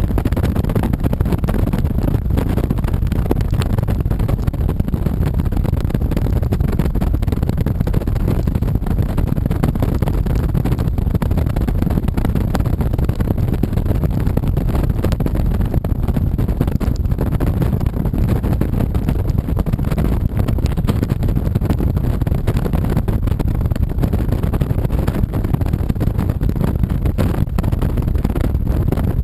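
Honda VTX 1300C's 1,312 cc V-twin running steadily under way, mixed with wind and road noise.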